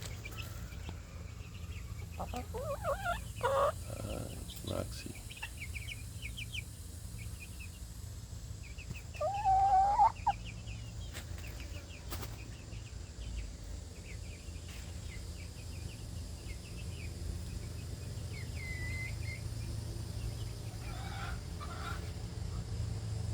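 Chickens clucking now and then, with one louder drawn-out call about nine seconds in, over a steady low hum and a thin run of high chirps.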